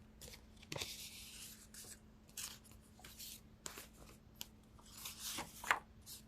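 Faint rustling and light clicks of tarot cards being handled and laid down, with a sharper tap near the end.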